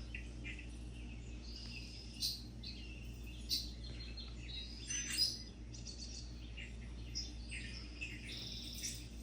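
Several small birds chirping and singing in short, overlapping calls and trills, over a steady low hum.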